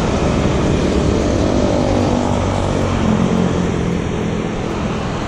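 Road traffic noise with a motor vehicle's engine passing close by; the engine hum is strongest about three seconds in.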